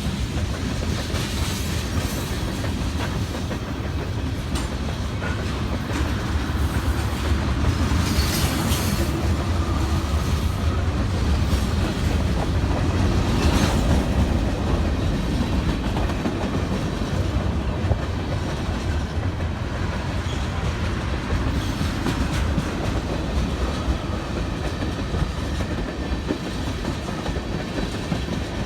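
Freight train rolling past: a steady, continuous noise from the moving cars, with occasional clicks of the wheels over the rails.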